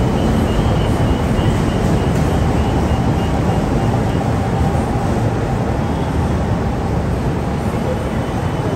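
Steady loud rumble and hum of an LRT-1 train standing at the platform, with a faint high-pitched beeping through the first half.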